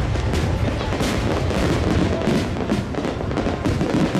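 Fireworks display: many bursts and crackles going off in quick succession over a continuous low rumble.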